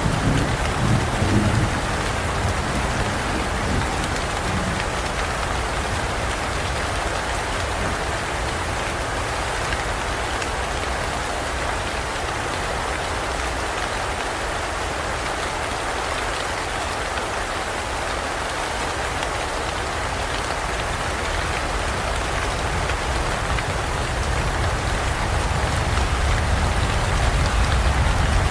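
Rain falling steadily in a dense forest, an even hiss of drops. A low rumble of thunder dies away in the first couple of seconds, and another low rumble builds near the end.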